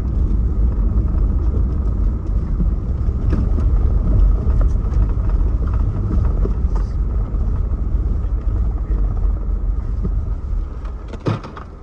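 Car driving, heard from inside: a steady low rumble of road and engine noise that gets quieter near the end as the car slows, with a single sharp click shortly before the end.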